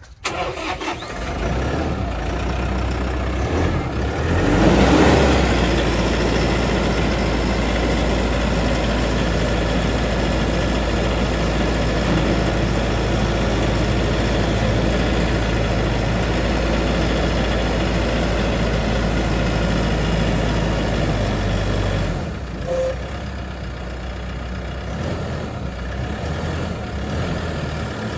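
Mahindra 105 tractor's diesel engine starting and then running steadily. The revs rise briefly about four to five seconds in, and the engine settles to a quieter, lower speed about 22 seconds in.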